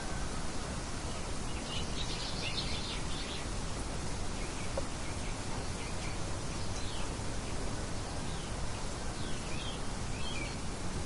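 Steady wind-like hiss with small birds chirping over it: a cluster of quick chirps about two seconds in, a few scattered ones mid-way, and another cluster near the end.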